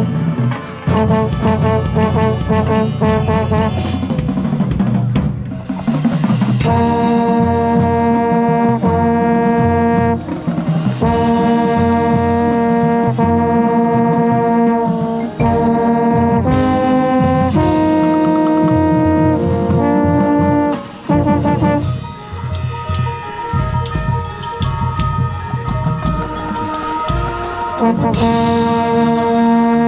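Marching band brass playing loud held chords that change every second or two, over drums, with a low brass horn close to the microphone.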